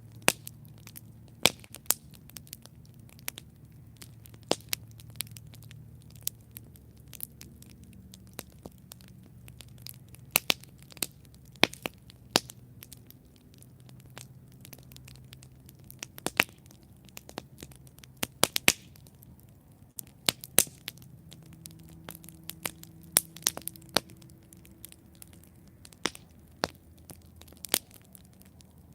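Campfire burning with irregular sharp crackles and pops over a low, steady rumble of the flames.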